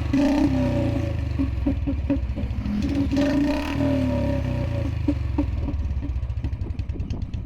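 Royal Enfield Bullet Standard BS4's single-cylinder engine running through an aftermarket Punjab-style silencer, the throttle blipped so the revs rise and fall near the start and again about three seconds in.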